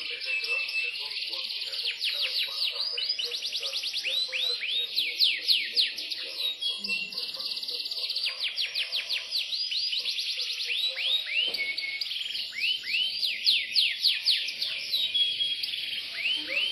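Yorkshire canary singing a long, continuous song of fast trills and quickly repeated falling notes, high-pitched.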